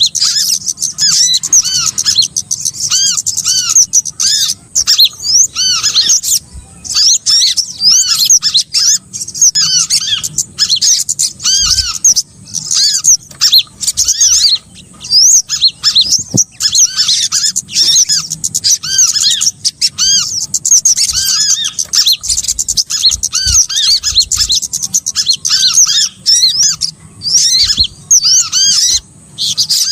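A bird-lure recording of many small birds chirping and twittering: rapid, continuous short arched chirp notes, repeated over and over with only brief gaps. The track is played to call small birds in for trapping.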